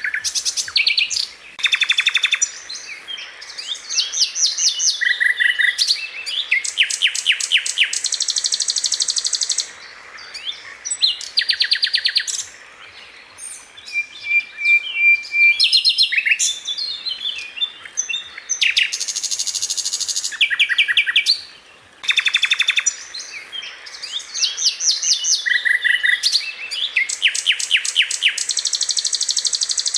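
Sikatan londo flycatcher singing a long series of quick high phrases. These are fast runs of rapidly repeated notes and buzzy high trills, with a few short level whistles and brief pauses between phrases.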